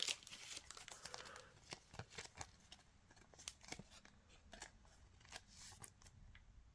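Faint, scattered clicks and soft rustles of trading cards being handled and slid against one another.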